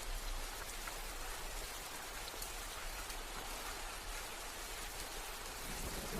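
Steady rain falling: an even hiss with scattered drop ticks. Near the end a low rumble of thunder begins to build.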